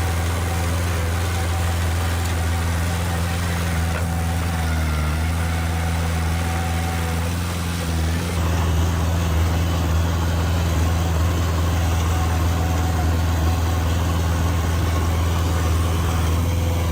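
Heavy diesel engine of an earthmoving machine running steadily at low revs, getting a little louder about eight seconds in.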